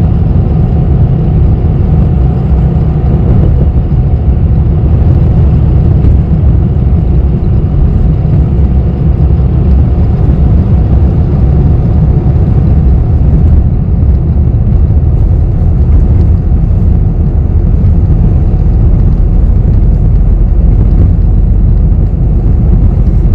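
Steady low rumble of a city bus's engine and road noise, heard from inside the passenger cabin while the bus is moving.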